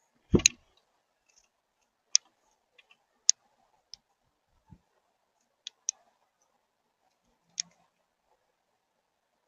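A thump about half a second in, then scattered sharp clicks and taps of birds' beaks pecking at seed on a bird feeder.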